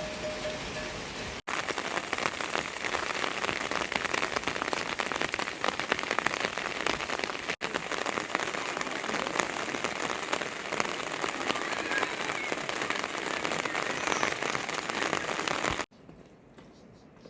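Heavy rain falling on a surface, a dense steady patter of drops. It breaks off twice for a split second and cuts off abruptly near the end to a much quieter background.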